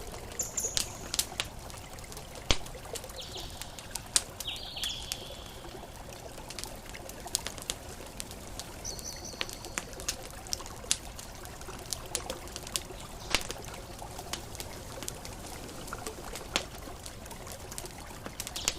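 Campfire crackling with irregular sharp pops over a steady wash of ocean waves. A few short high chirps come in near the start and again around the middle.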